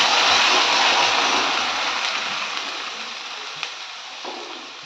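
Freshly added wet onion paste sizzling in hot fat in a wok while being stirred with a wooden spatula; the hiss is loud at first and dies down gradually as the paste begins to cook its water off.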